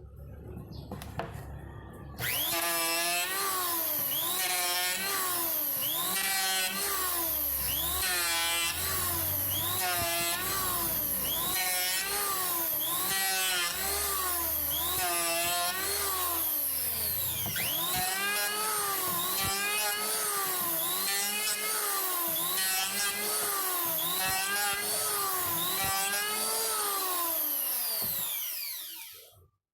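Makita M1902 electric hand planer starts abruptly and runs, its motor pitch dipping and recovering about once a second as it is loaded, consistent with planing wood. Near the end it is switched off and the motor spins down.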